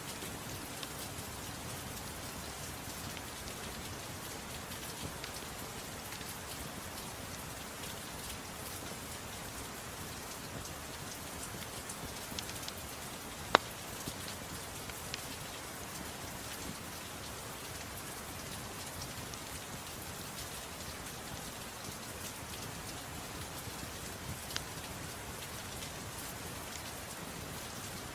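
Steady rain hiss mixed with a few sharp crackles from a wood fire. The loudest crackle comes about halfway through.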